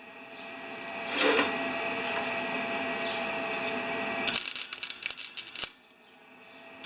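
Gasless wire-feed welder arc hissing steadily as it welds a lawn tractor muffler, breaking into sharp crackling and popping about four seconds in, then dropping off briefly near the end.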